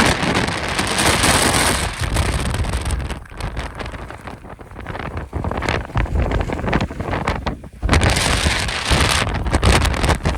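Strong Santa Ana wind gusting, buffeting the microphone with a low rumble under a rushing hiss. The gusts are strongest at the start and again about eight seconds in, with a lull around four to five seconds.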